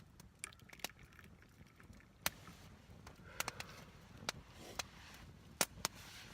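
Campfire crackling: irregular sharp pops and clicks over a low rumble.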